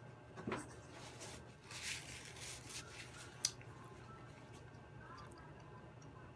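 Close-miked chewing and soft wet mouth sounds of a person eating fried chicken and rice, with one sharp click about three and a half seconds in.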